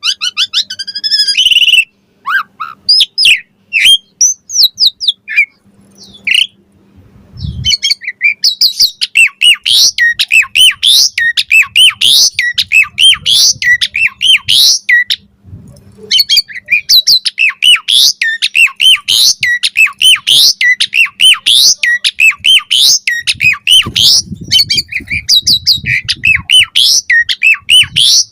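Asian pied starling (jalak suren) singing a long, rapid run of chattering, whistled and squawking notes. The song is patchy for the first several seconds, then dense and continuous from about eight seconds in, with a brief pause near the middle.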